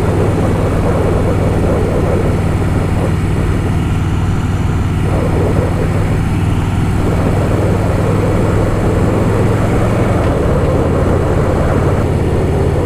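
Harley-Davidson Softail Fat Boy's V-twin engine running steadily while the motorcycle cruises, with a slight change in engine note about ten seconds in.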